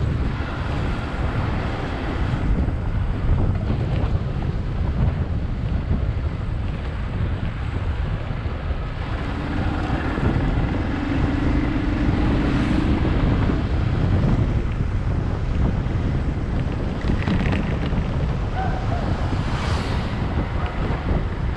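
Wind rushing over the microphone of a rider on a moving motorcycle, a steady low rumble. A steady hum rises out of it for a few seconds around the middle.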